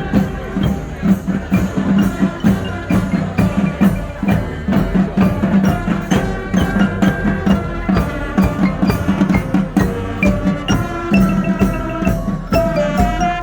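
A marching band's drums beating a steady, regular rhythm, with pitched melody notes coming through more clearly near the end.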